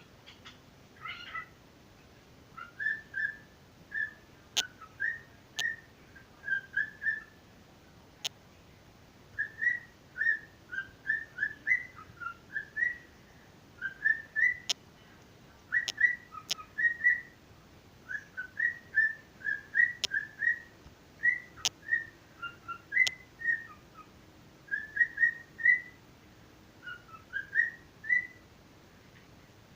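Pet bird whistling short, mostly rising notes in quick little groups again and again, with a few sharp clicks among them.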